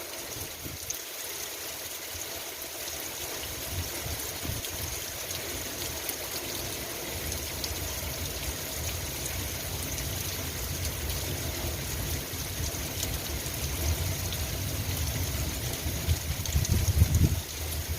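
Steady rain falling, a fine even patter. A low rumble builds under it through the second half and swells briefly near the end.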